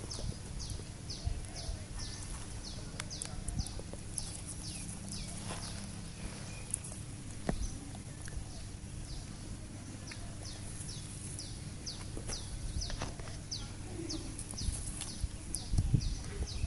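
A bird's short, high, downward-sweeping chirp, repeated about twice a second, pausing for a couple of seconds midway before starting again, with faint scattered clicks and a low steady hum underneath.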